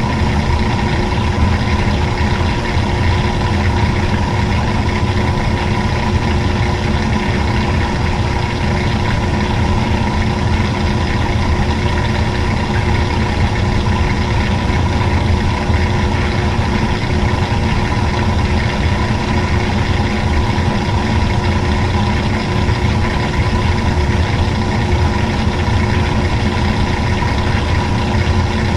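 Washing machine running, a loud steady motor hum with fixed tones that does not change.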